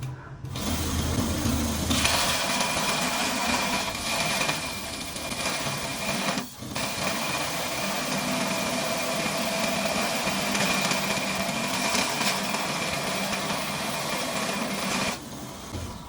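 An electric power tool running steadily, a noisy hiss with a high steady whine in it, dropping out for an instant about six and a half seconds in and stopping near the end.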